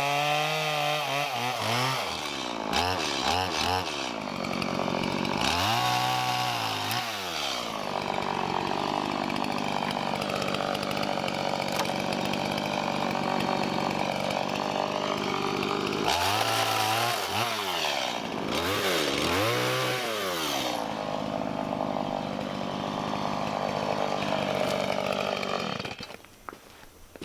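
Two-stroke chainsaw running and cutting wood: the engine revs up and drops back several times, with long stretches held at high revs. Near the end it stops suddenly.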